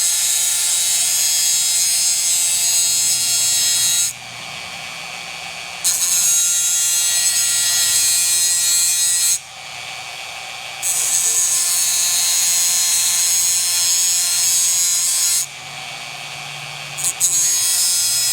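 Angle grinder cutting into a steel hydraulic cylinder to widen a slot and reach the keeper-ring wire. It runs in long cutting passes, dropping suddenly to a quieter whir for a second or two between them, about four seconds and nine seconds in and again near the end.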